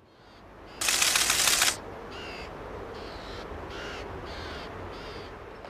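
A short loud burst of hiss about a second in, then a series of about five bird cries, each brief and less than a second apart.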